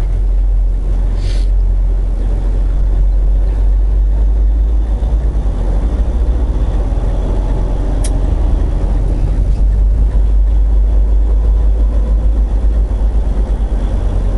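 Semi-truck's diesel engine running, heard from inside the cab as the truck pulls away, a steady low rumble with a couple of sharp clicks.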